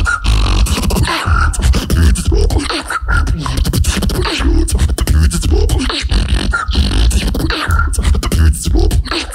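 Solo beatbox performance: a steady, driving rhythm of deep bass kicks, snares and hi-hat clicks, with short pitched vocal sounds woven between the beats.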